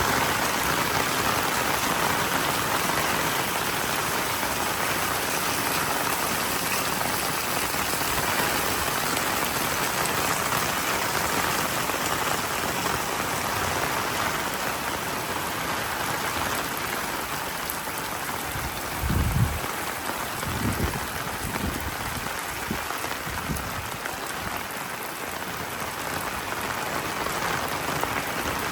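Heavy monsoon rain falling steadily, a dense even hiss of drops on surfaces. About two-thirds of the way in there are a few low, dull thumps.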